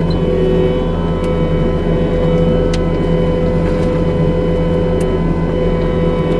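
New Holland C327 skid steer running steadily at high speed with its McLaren RM60 forestry mulching head spinning: an even, unchanging machine drone with a few sharp ticks.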